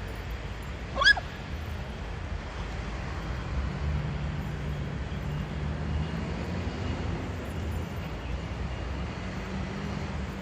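A dog gives one short, high-pitched yip about a second in, over a steady low rumble.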